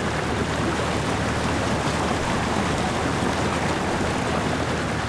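Vehicle driving slowly through shallow water on an unsealed lane, its tyres churning and splashing steadily over the low hum of the engine.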